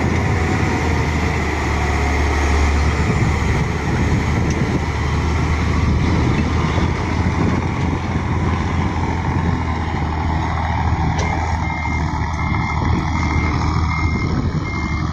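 Heavy diesel engine running loud and steady. About eleven seconds in, a reversing alarm starts up: a quick, regular string of short high beeps, a little over two a second.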